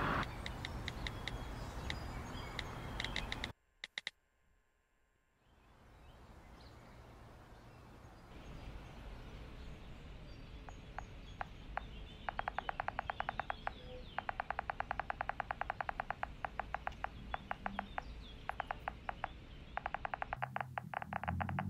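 A bird's rapid rattling chatter in several long bursts over a low outdoor hum, with a brief drop to near silence about four seconds in.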